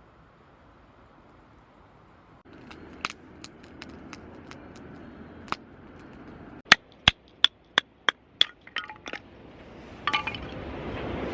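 A run of sharp clinks, about three a second, with scattered lighter clicks before it and a rustle near the end.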